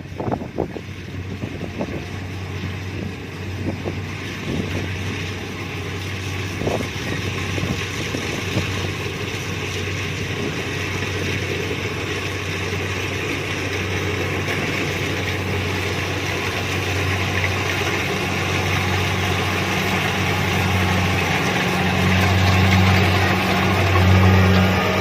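Kubota DC-70 Plus combine harvester running in a rice field. Its engine makes a steady low drone over a wide mechanical clatter, and the sound grows gradually louder throughout, with a few knocks near the start.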